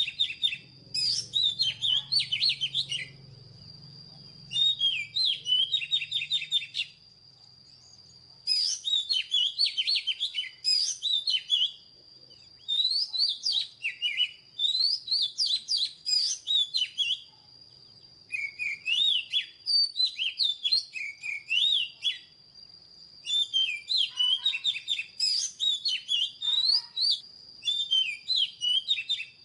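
Oriental magpie-robin singing: bouts of rapid, varied whistled and sweeping notes a few seconds long, broken by short pauses, over a faint steady high-pitched tone.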